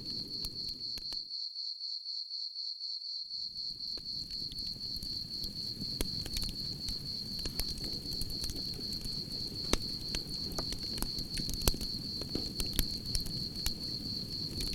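A cricket trills steadily and high over a crackling campfire, whose low hiss carries scattered sharp pops. About a second in, the fire cuts out completely for roughly two seconds while the cricket goes on, then comes back.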